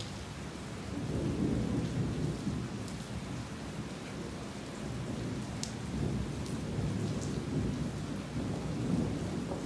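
Heavy rain falling steadily, with low rolling thunder rumbling underneath that swells about a second in and again in the second half.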